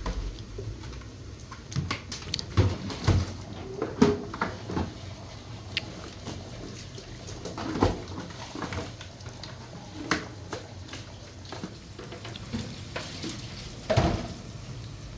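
Irregular clatter: scattered knocks and clinks of objects being handled, with a loud cluster about three to four seconds in and another near the end.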